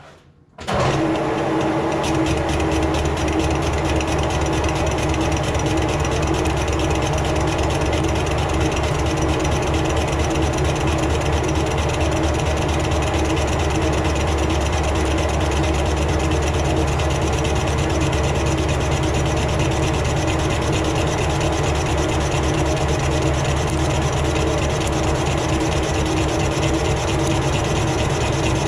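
Metal lathe running steadily under a cut, starting abruptly under a second in: a steady motor hum with the tool scraping through the workpiece.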